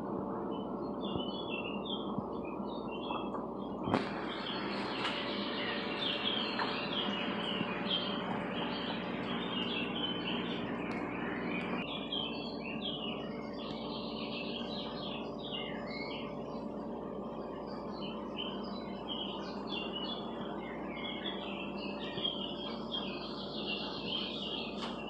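Small birds chirping in short, irregular high calls over a steady background hiss with a faint hum. A single click sounds about four seconds in.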